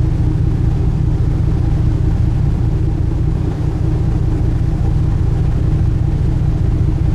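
A sightseeing cruise boat's engines running steadily, heard on board as a loud, even low drone with a hum on top.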